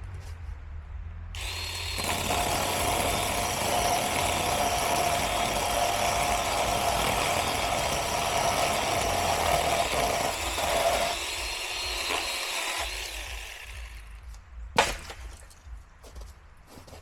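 Small electric chainsaw starting up about a second in and cutting through the wood of a fallen tree, the motor winding down after about thirteen seconds. A single sharp knock follows near the end.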